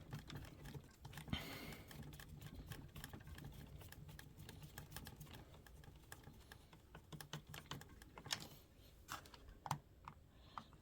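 Faint, irregular light clicks and taps, with a few sharper ones near the end, from a small Torx screwdriver tightening screws into a laptop's plastic bottom case.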